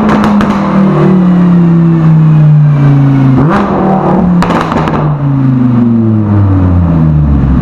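Lamborghini Huracán V10 through a Soul Performance race exhaust, engine note falling as it slows, with a sudden rise about three and a half seconds in like a downshift blip. Crackles and pops on the overrun come just after the start and again about four to five seconds in, before it settles to a low, steady note near the end.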